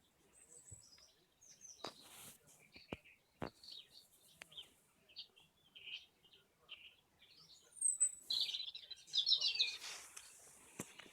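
Small birds chirping and twittering in short high calls, with a quick falling trill near the end. A few sharp clicks are heard in between.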